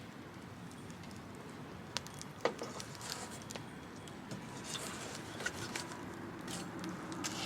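Scattered light clicks and clinks of small hard objects, a couple of sharper ones about two seconds in, over a steady low background noise.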